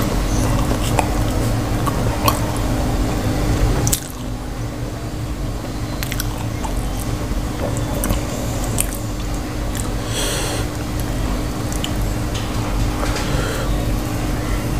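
Close-up, wet chewing and mouth sounds of someone eating soft, saucy potato-and-cauliflower curry with roti, with scattered soft clicks and a brief hiss about ten seconds in. A steady low hum runs underneath and drops suddenly about four seconds in.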